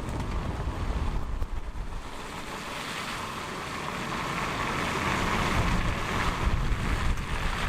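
Road and wind noise from a moving car: a low rumble and buffeting, with a hiss that swells from about two and a half seconds in and grows louder toward the end.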